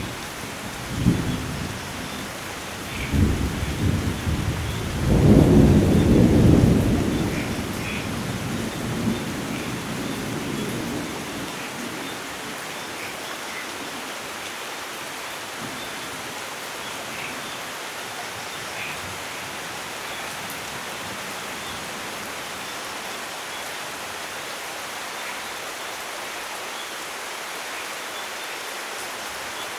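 Steady rain with rolling thunder: a few rumbles in the first seconds build to a long peal about five to seven seconds in, then die away by about twelve seconds, leaving the rain alone. Faint short chirps sound now and then over the rain.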